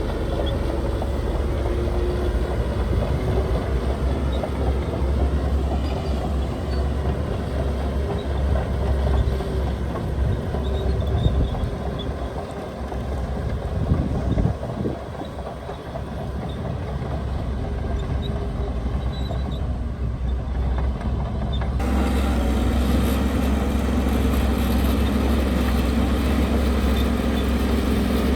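Heavy diesel earthmoving machinery running, a deep steady engine rumble with a few louder peaks in the middle. About three-quarters of the way through the sound changes abruptly to a different, steadier engine note.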